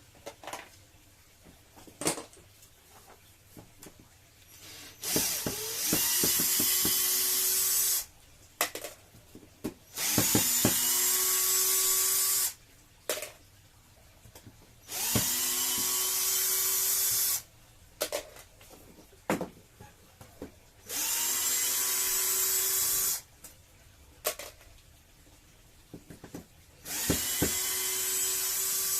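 Electric drill run in five short bursts of about two to three seconds, each spinning up to a steady whine, with small clicks and knocks between the runs.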